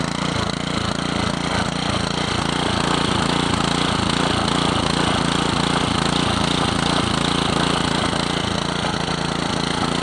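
Honda GC160 160cc single-cylinder engine running steadily on the last of its fuel, left to run until the tank and carburettor are empty.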